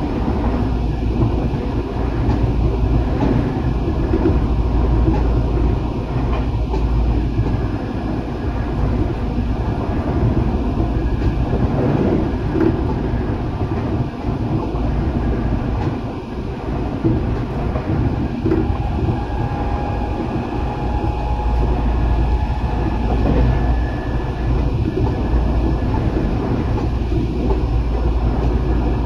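Tokyo Metro 8000 series electric commuter train running at speed, heard from inside the car: a steady rumble of wheels on rail with occasional clacks over rail joints.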